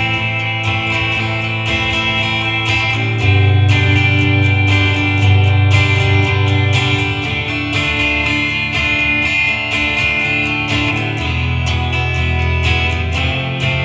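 Acoustic guitar strummed in a steady rhythm, playing a song's chord progression with a change of chord about every four seconds.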